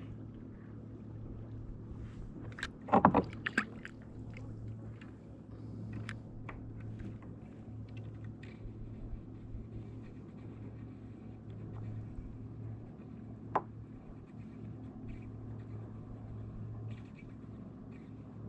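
Fishing kayak on the water, with a cluster of knocks and clatters of gear against the hull about three seconds in and a single sharp knock later on.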